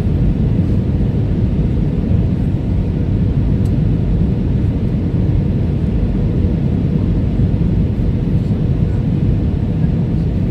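Airbus A320 airliner noise during landing: a steady low rumble with a faint steady tone above it.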